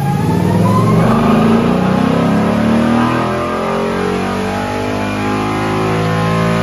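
A 2021 Mustang GT's 5.0 L Coyote V8 at full throttle in a dyno pull. The revs climb steadily for about three seconds, then hold level near the top of the pull.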